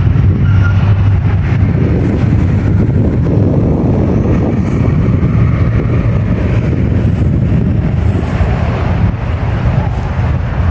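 A train running close by: a loud, steady low rumble that holds at an even level.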